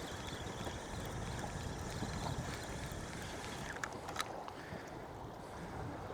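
Steady wind and sea noise aboard a small drifting boat, with two short sharp clicks about four seconds in.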